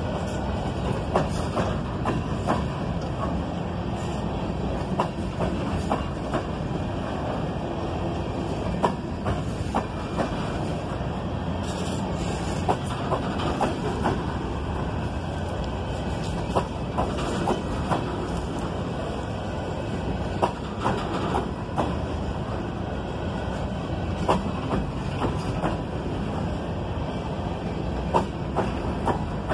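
Cars of a CSX coal train rolling past: a steady rumble of steel wheels on the rails, with frequent irregular sharp clacks as the wheels cross rail joints.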